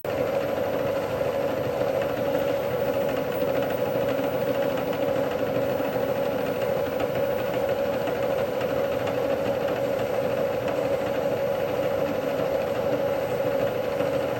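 A machine tool's electric motor and drive running steadily, an even hum with a few fixed tones and no change in speed.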